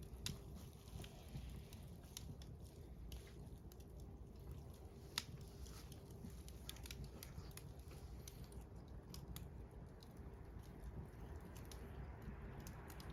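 Wood campfire crackling: scattered faint snaps and pops over a low steady rumble, with one sharper pop about five seconds in.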